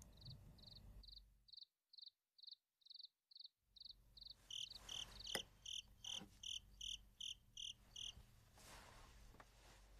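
Crickets chirping, about three short high chirps a second. About halfway through, a louder chirp at a different pitch takes over, and the chirping stops a couple of seconds before the end. A single sharp click comes about five seconds in.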